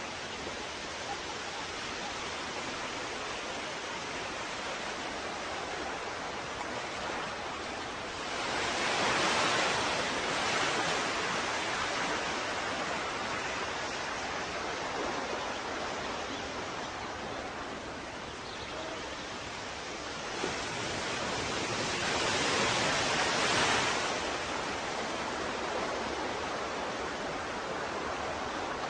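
Ocean waves washing in a steady hiss of surf, swelling louder twice as waves break, and a third beginning to build at the end.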